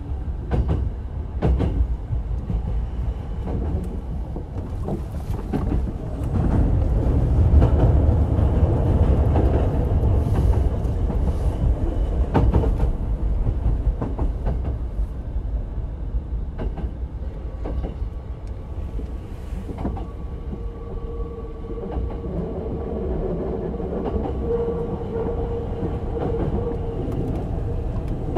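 Onboard running sound of a Hankyu 8000-series electric train with Toshiba GTO-VVVF control: steady wheel-and-track rumble with clacks over rail joints, growing louder for several seconds a quarter of the way in. In the second half a steady whine from the traction equipment comes in.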